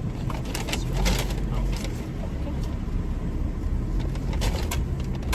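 Steady low rumble of a car heard from inside its cabin, with a few light clicks and rustles about a second in and again near the end.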